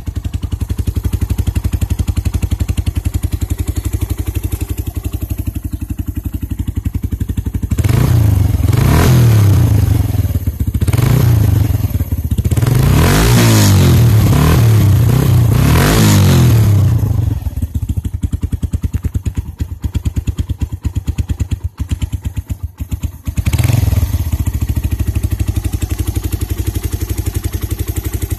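Sinnis Apache 125's air-cooled single-cylinder engine idling with a steady low pulse, then revved up and down several times for about ten seconds before dropping back to idle. It gets one more short blip of the throttle a few seconds later, then idles again.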